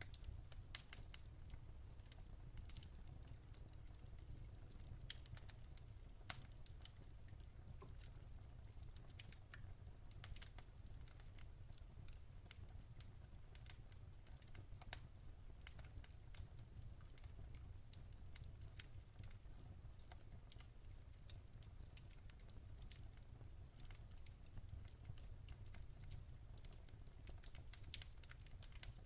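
Wood campfire crackling faintly, with irregular sharp pops and snaps scattered throughout over a low steady rumble.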